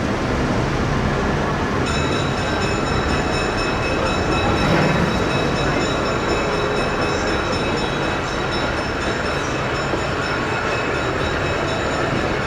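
Excursion train rolling past, a steady rumble of railroad cars on the track. About two seconds in, a steady high-pitched whine joins the rumble and holds.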